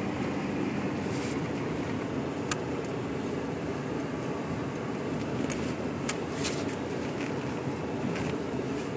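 Steady low rumble of a car driving on snow-covered roads, engine and tyre noise heard from inside the cabin, with a few sharp clicks, the loudest about two and a half and six seconds in.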